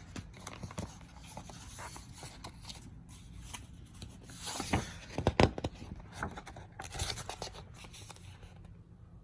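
Faint rustling and scraping of paper, the pages of a picture book being handled and turned, with a few louder scrapes about five seconds in.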